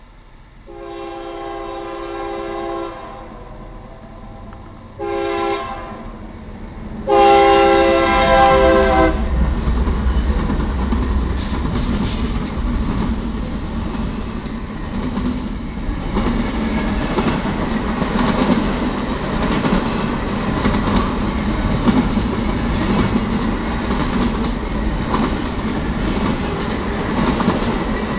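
Diesel locomotive air horn sounding three chord blasts, long, short, long, from a GE C44-9W leading an eastbound double-stack freight train. From about nine seconds in the locomotives pass and the train rolls by with steady low engine rumble and wheel-on-rail noise.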